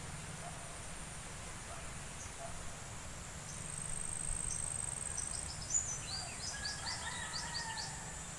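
Countryside ambience: a steady high-pitched insect drone, with a bird calling in quick short chirps over the last few seconds, and a low rumble underneath.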